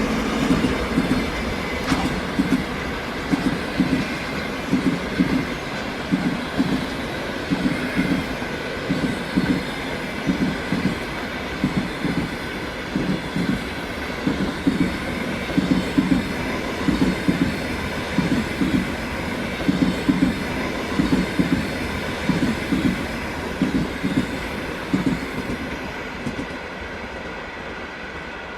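Passenger coaches of a diesel-hauled train rolling past, their wheels clattering over the rail joints in a long, regular run of knocks. The sound fades near the end as the train moves off.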